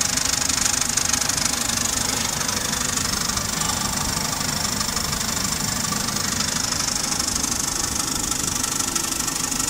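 Mazda Premacy engine idling steadily, with no distinct knocks or whines standing out.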